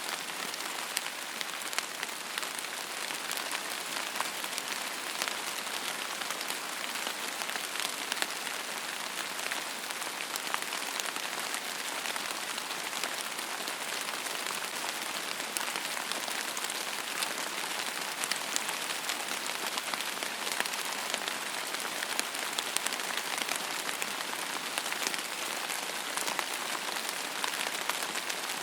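Steady rain falling on a surface, a constant hiss with many fine individual drop ticks throughout.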